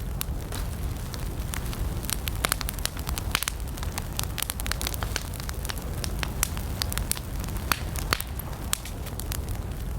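Wood campfire burning, with many sharp irregular crackles and pops over a steady low rumble of the flames.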